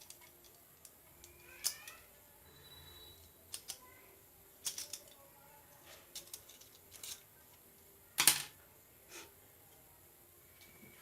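Irregular clicks and knocks of metal parts and tools being handled while a mixer grinder motor is worked on, with the loudest knock about eight seconds in.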